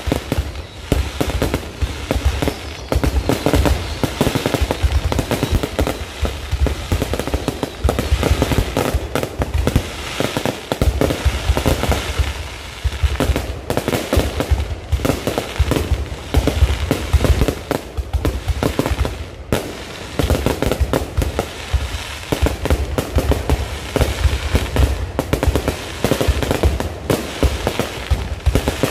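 Low-altitude fireworks display going off in a continuous rapid barrage of bangs and crackles, with a deep rumble underneath and a brief lull about two-thirds of the way in.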